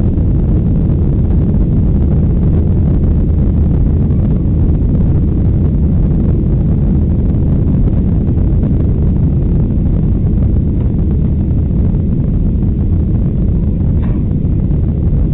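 Boeing 737-800's CFM56-7B jet engines and rushing air, heard inside the cabin as a loud, steady low rumble with high thrust set for takeoff.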